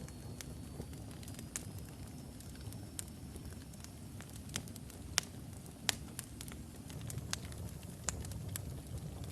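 Wood fire burning logs in a fireplace: a steady low rumble of flames with scattered sharp crackles and pops, the two loudest about five and six seconds in. A faint thin high whistle rises slightly in pitch and fades out about four seconds in.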